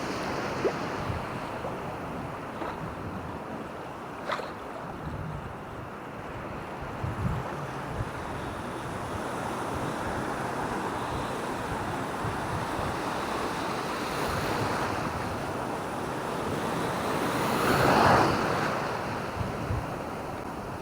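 Ocean waves washing onto a beach, with wind buffeting the microphone. A wave swells and breaks louder about eighteen seconds in, and there are a few faint clicks.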